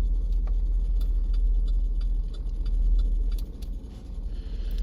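Steady low rumble inside the cabin of a 2011 GMC Yukon Denali, with scattered light clicks and ticks.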